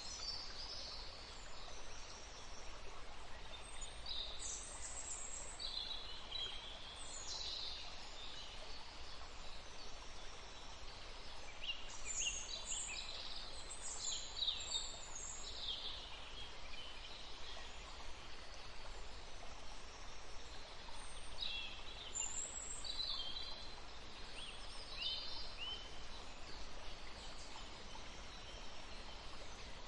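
Faint birdsong: scattered short, high chirps over a steady low hiss.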